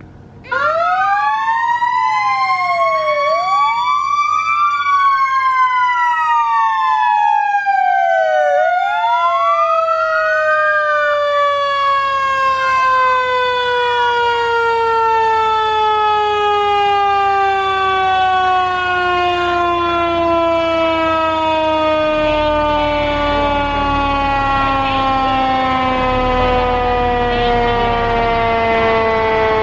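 Fire truck siren sounding up close, starting suddenly about half a second in: for the first ten seconds wailing tones rise and fall across each other, then one tone slowly falls in pitch for the rest of the time. A low rumble joins near the end.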